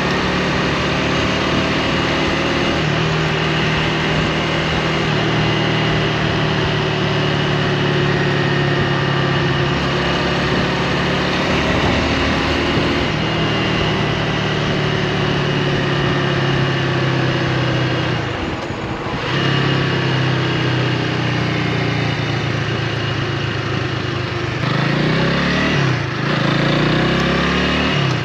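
2024 Honda Rebel 300's single-cylinder engine running under way, with wind rushing past the camera's microphone. Its revs drop briefly about two-thirds through, then climb again near the end.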